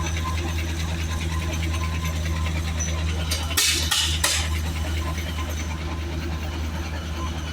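Engine running steadily with a low, even hum. About three and a half seconds in there are three short hissing bursts in quick succession.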